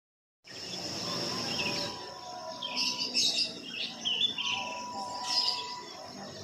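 Birds chirping in short, repeated calls over a steady high-pitched insect drone. The sound cuts in abruptly after half a second of silence.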